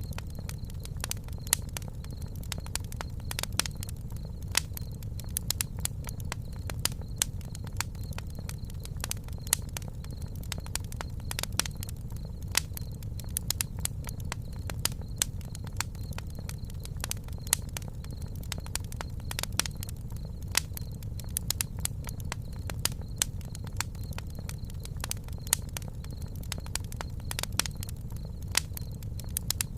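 Wood campfire crackling: frequent irregular sharp pops and snaps, several a second, over a steady low rumble of the burning fire.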